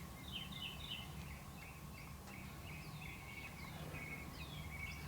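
Birds chirping in the background, a steady run of short high notes, some sliding down in pitch, over a faint low hum.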